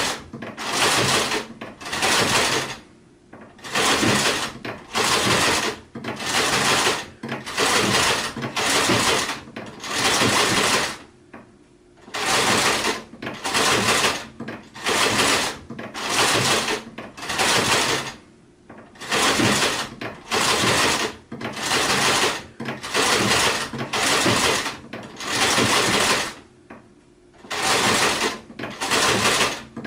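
Sewing machine stitching in short runs under a second long, starting and stopping about once a second, with a few longer pauses between runs.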